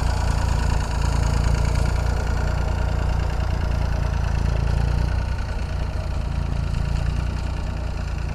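An engine running steadily with a deep, low drone that eases off a little about five seconds in.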